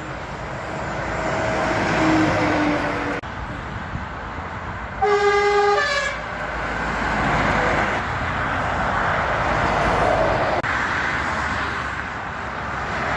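A truck's horn blasts once for about a second, a single steady pitched note, over the continuous noise of passing heavy traffic.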